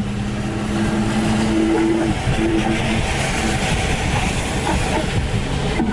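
A car driving at speed: a steady engine or exhaust drone fades about two seconds in, giving way to a rush of tyre and wind noise that swells in the middle.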